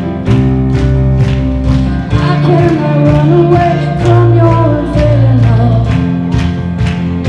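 Worship band playing live with a steady drum beat and bass under a singing voice.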